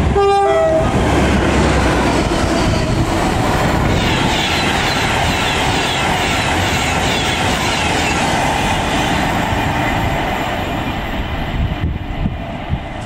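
A train horn gives a short two-tone blast, then an Avanti West Coast Class 390 Pendolino electric train passes close by at speed: a steady rush of wheels on rail and air, easing off near the end.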